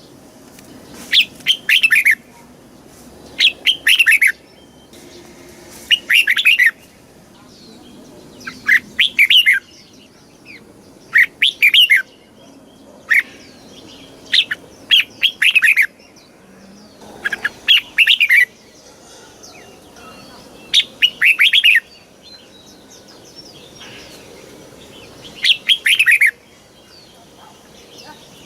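Red-whiskered bulbul singing: short, quick bursts of warbling notes, about ten phrases repeated every two to three seconds, with a longer pause about three-quarters of the way through.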